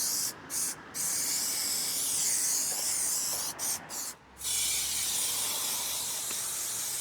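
Spray adhesive hissing from its nozzle in bursts: a couple of short squirts, then long steady sprays broken by a brief pause about four seconds in. The glue is being laid along a van ceiling for carpet lining.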